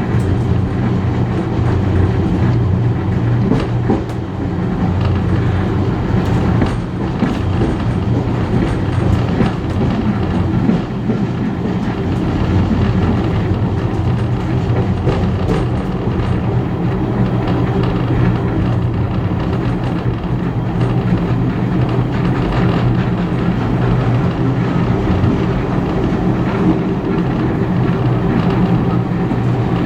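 Heritage passenger carriage running along the line behind a steam locomotive: a steady, loud rumble of wheels on the rails, with a low drone and occasional faint clicks from the track.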